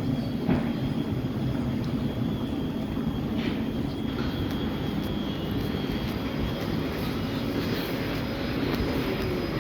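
Electric train running through the station: a steady rumble with a thin, high steady whine over it.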